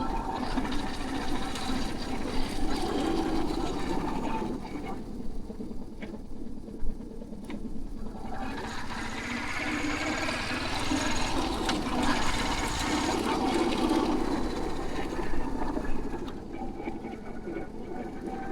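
Royal Enfield Hunter 350 motorcycle on the move, its engine running steadily under wind noise on the microphone. The sound thins out for a few seconds near the middle, then fills back in.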